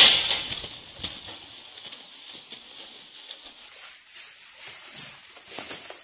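A sharp snap at the start, then irregular fluttering, tapping and rustling of a stripe-throated bulbul moving about on a rattan cage trap.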